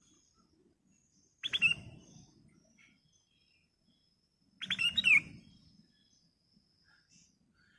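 Kutilang emas (black-crested bulbul) calling: two short, loud bursts of clear chirping notes about three seconds apart.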